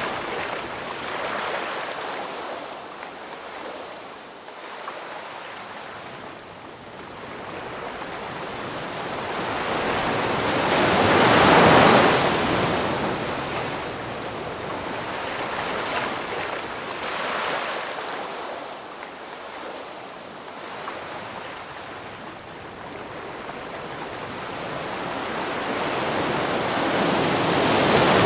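Ocean waves breaking on the shore, each swell of surf building and washing out; the biggest wave crashes about twelve seconds in and another builds near the end.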